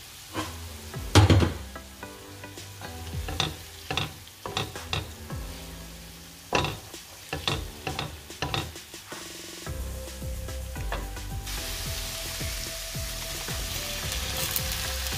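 Vegetables and speck frying in oil in a wok, stirred with a wooden spoon that knocks and scrapes against the pan many times. Near the end, diced red and yellow peppers are tipped in and the sizzling grows louder.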